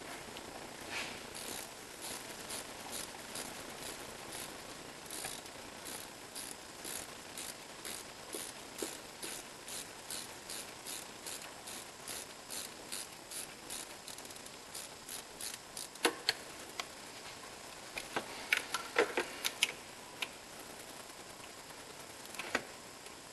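Ratchet wrench clicking in a steady run of about two to three clicks a second as a bolt is turned, then a few louder metallic knocks near the end.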